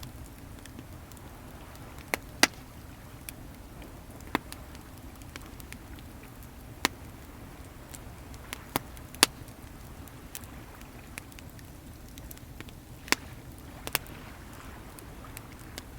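Wood bonfire crackling, with sharp pops at irregular intervals, over a steady low rush of sea waves.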